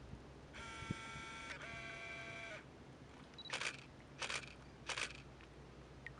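Digital camera working: a motor whirs in two steady stretches, then the shutter fires three times, about two-thirds of a second apart.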